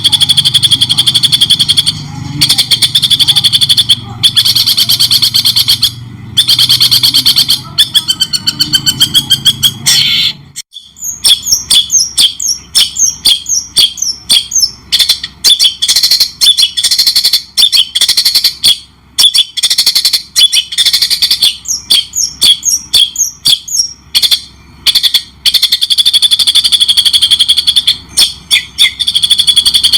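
Loud, fast songbird song played as a masteran training recording, a dense high trill; about ten seconds in it cuts abruptly to a run of quick chirps and short sweeping whistles, with the trill returning near the end.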